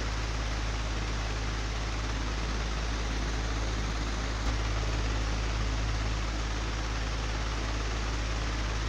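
Old, broken electric fan running: a steady hum with a rushing whir over it, and a single click about four and a half seconds in.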